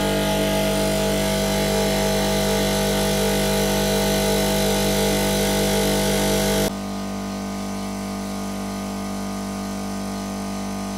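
Air compressor running steadily to inflate a freshly plugged car tyre to about 34 psi; about two-thirds of the way through its sound drops suddenly to a quieter, steady running.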